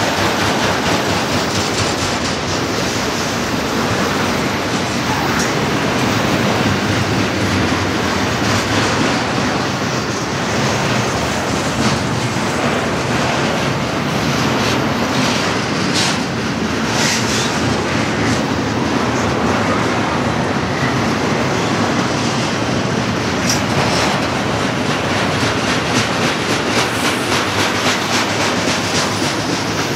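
Freight train of autorack and double-stack container cars rolling past close by: a steady loud rumble of steel wheels on rail with rhythmic clickety-clack from the wheels, and a few brief high squeals.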